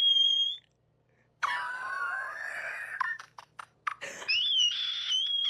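High-pitched wailing cries: a held squeal at the start, a lower wavering cry in the middle, then another wavering squeal near the end, with a few sharp clicks in between.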